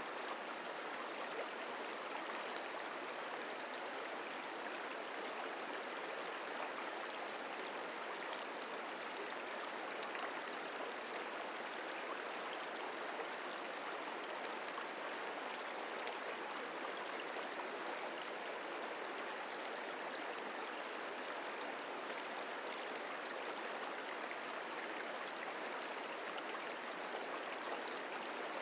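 The Merced River flowing over rocks: a steady, even rush of moving water.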